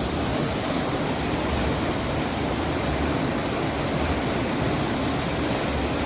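Flowing water of a hill river, a steady rushing noise.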